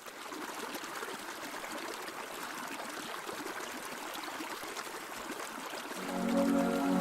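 Trickling, running water, such as rainwater running off or a small stream, with a fine patter of drips. About six seconds in, soft music with long held notes comes in over it.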